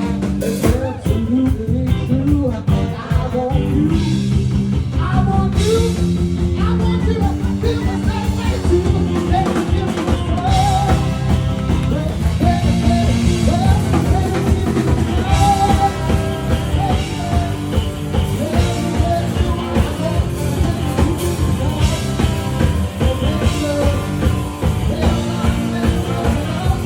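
Live rock band music with guitar, bass and drum kit playing steadily, with some singing.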